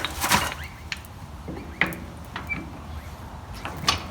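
A few sharp metal knocks and scrapes, shortly after the start, near the middle and near the end, as the tractor's three-point lift arm is worked up onto its pivot.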